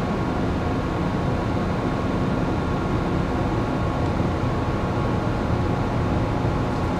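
Steady hum of a moored passenger-cargo ship's onboard machinery and ventilation, a deep drone with a few faint, steady whining tones above it.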